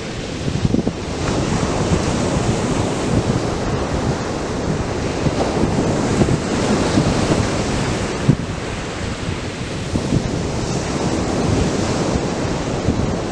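Atlantic surf breaking and washing up the beach in a steady roar, with wind buffeting the microphone in frequent low thumps.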